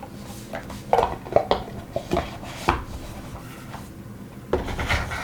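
Sharp clicks and light clattering of small hard objects being handled on a tabletop: a run of taps about a second in, and another cluster near the end.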